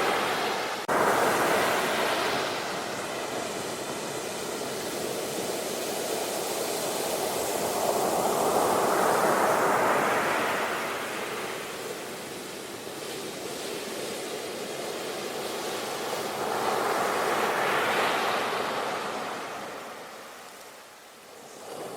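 Ocean surf breaking on a beach: waves swell and wash in roughly every eight seconds, with a sudden jump in loudness about a second in and a lull near the end.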